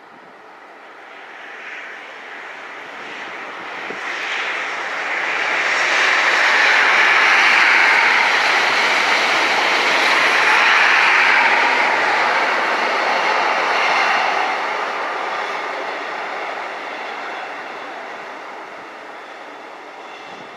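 Locomotive-hauled passenger train passing on the main line: its rumble and rail noise build steadily, peak as the coaches go by about seven to eleven seconds in, then fade as it moves away.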